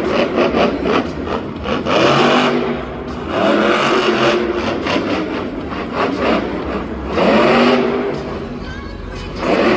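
Monster truck engine revving hard in repeated surges, its pitch rising and falling about five times.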